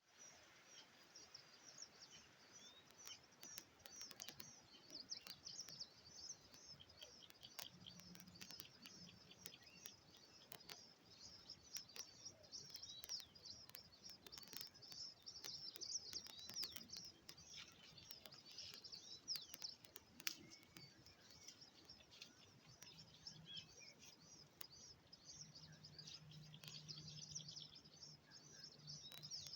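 Faint chorus of many small birds chirping and twittering continuously, with a faint low hum in the last few seconds.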